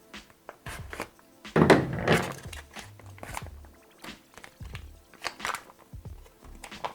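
A foil retort pouch being handled and opened: crinkling, clicks and knocks, with a louder stretch of rustling about a second and a half in.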